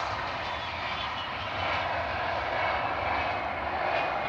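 Loganair airliner's engines running steadily as it lands, a broad even roar with a faint high whine.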